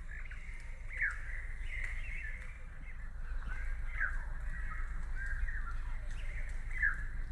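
Birds calling outdoors: a run of short chirps and sharp downward-sliding calls, repeating every second or so, over a steady low rumble.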